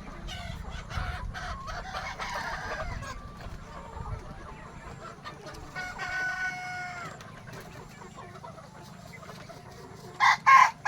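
A flock of Sonali desi chickens clucking, with a drawn-out call about six seconds in and two loud calls near the end.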